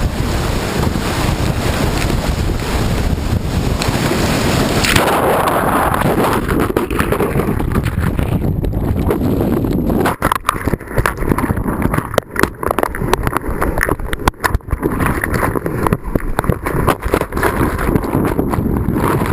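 Rushing whitewater of a steep creek, loud and close with splashing and rush on the microphone. About five seconds in the sound turns muffled, and from about ten seconds on it breaks up into choppy drops and crackles.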